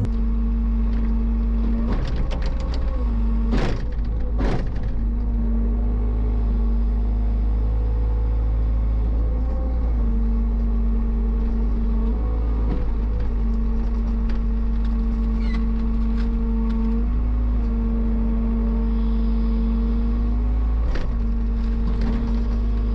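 Heavy equipment engine running steadily with a constant low rumble and hum, with a couple of sharp knocks about four seconds in and another near the end.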